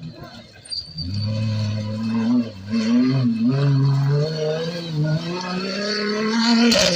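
Off-road race car engine running hard, coming in about a second in, its pitch rising and falling repeatedly as it revs. A sharp knock near the end.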